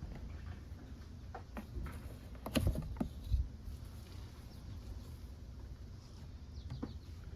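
Scattered light clicks and knocks of parts and a drain container being handled, loudest in a short clatter about two and a half to three and a half seconds in, over a low steady background hum.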